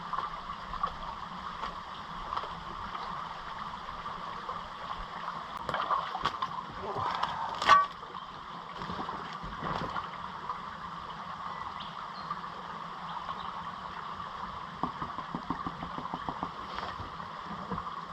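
Water sloshing and splashing in a gold pan as gravel is washed down, over a steady rush of running water. There is one sharp, louder splash about eight seconds in.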